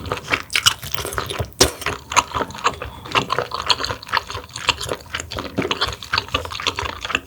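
Close-miked wet eating sounds of a spicy mussel dish: slurping and chewing, with many quick, irregular wet clicks.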